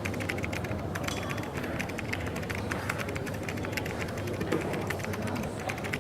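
Coffee shop ambience: a steady low background murmur with frequent small clicks and taps throughout.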